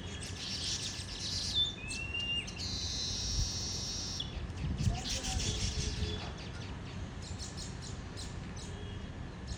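Small songbirds chirping in a busy chatter of short high calls, with a brief rising whistle about two seconds in and a buzzy, wheezy call lasting about a second and a half just after it, over a low background rumble.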